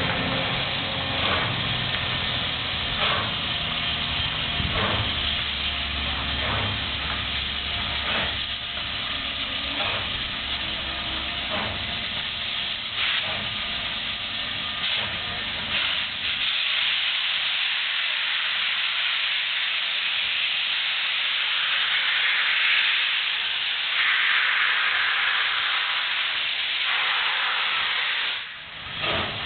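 Southern Pacific 4449, a 4-8-4 steam locomotive, pulling out: evenly spaced exhaust chuffs about every second and a half over a low rumble, giving way to a loud steam hiss in the second half.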